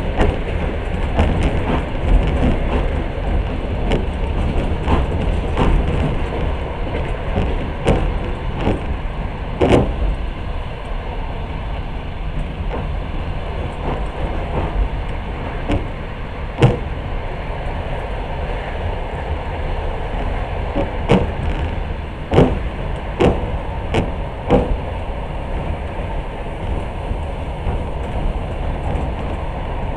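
Passenger train running at speed: a steady low rumble broken by irregular sharp clacks of the wheels over rail joints, more frequent in the first third and again a little past the middle.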